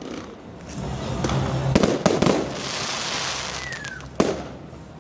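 Fireworks going off: a series of sharp bangs, with a dense crackling, hissing shower in between, and one loud bang near the end.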